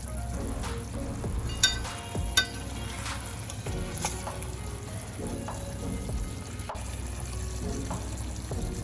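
Thick chicken curry gravy sizzling in the pan as it is stirred, with two sharp ringing metal clinks less than a second apart near the start.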